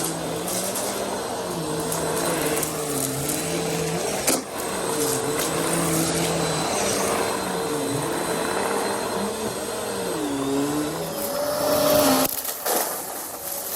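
Vacuum cleaner running, its motor pitch dipping and recovering every second or so as the load changes. Near the end the pitch rises and the sound drops away.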